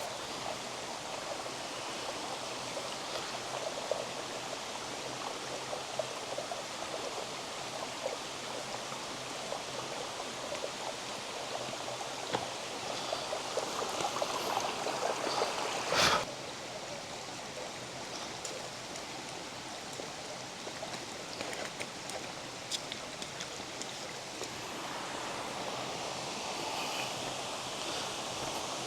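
Steady rush of water from a creek and its waterfall. One sharp knock about halfway through.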